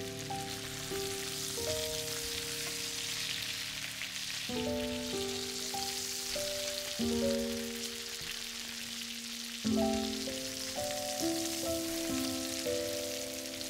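Flour-coated chicken breasts frying in oil and butter in a pan, a steady sizzle throughout. Under it, soft background music of sustained chords that change every few seconds.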